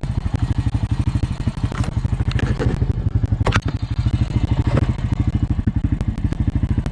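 Honda Rancher ATV's single-cylinder engine running steadily with an even, rapid low pulse. A few sharp clicks are scattered over it.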